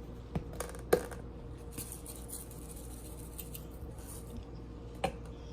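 Kitchen handling noises: a few light clicks and knocks of containers or utensils, the loudest about a second in and another near the end, with soft rustling between them.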